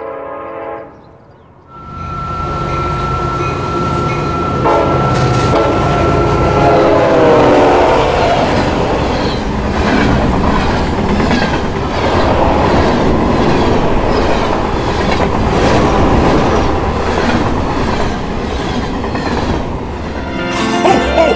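Train sound effect: a train horn sounding a chord that stops about a second in, then a train running on the rails with a steady rumble and an even clickety-clack rhythm.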